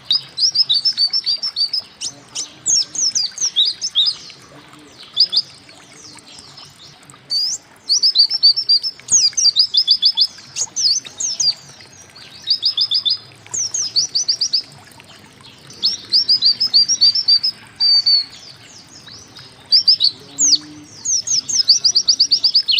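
White-eye (pleci) singing: phrases of rapid, high chirping notes, each about a second long, repeated with short pauses between them.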